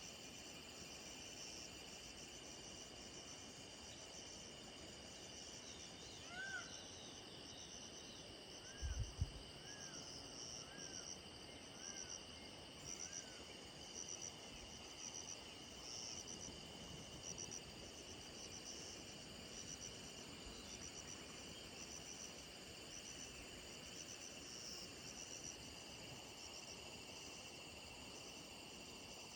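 A cricket chirping: short, high, pulsed chirps repeating about once a second over a steady high insect whine. A few faint whistled calls come in the middle, and a brief low thump about nine seconds in.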